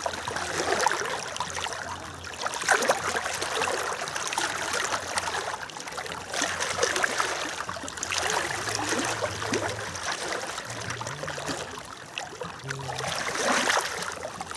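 The Ajay River running high in the rainy season, its water rushing with a steady noise that swells and eases every few seconds.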